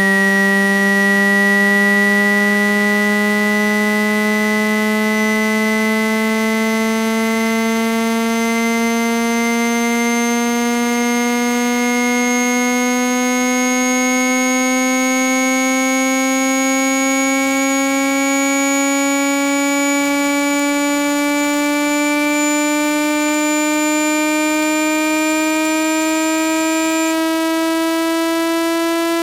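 A synthesized buzzy tone sweep for clearing a phone's earpiece speaker, rising slowly and steadily in pitch at a constant loudness.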